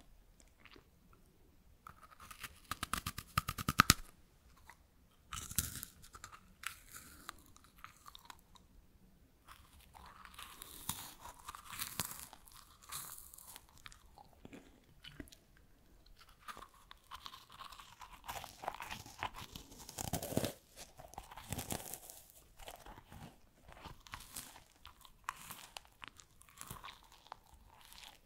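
Close-up crunching and chewing of crisp freeze-dried strawberries, in repeated bouts, the loudest and densest crackling about two to four seconds in.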